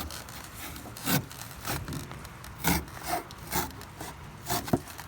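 A knife being worked in several uneven sawing strokes, cutting a piece off.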